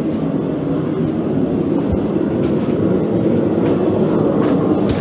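Steady, even roar of a running blacksmith's forge heating the steel, with a couple of faint clicks.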